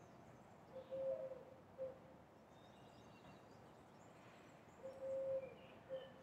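A bird's low cooing call, given twice about four seconds apart, each a short note, a long held note and a short note. Faint chirps of smaller birds sit over a steady hum of distant city noise.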